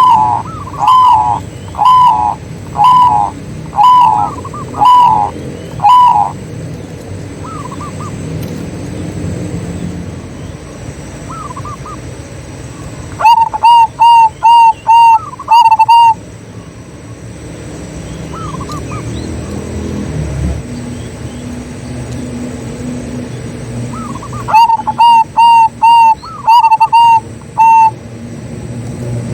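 Zebra doves cooing: loud repeated coos about one a second for the first six seconds, then a quick run of about six coos midway and another near the end, with fainter coos answering in between.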